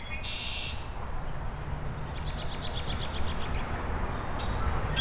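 Songbird calls: a short buzzy call at the start and a fast trill about two seconds in, over a low steady rumble that grows slowly louder.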